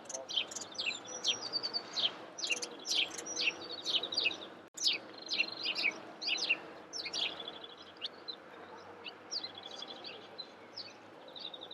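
Several songbirds singing at once, a dawn chorus of quick chirps and rapid trills. It is busiest in the first part and thins out after about eight seconds.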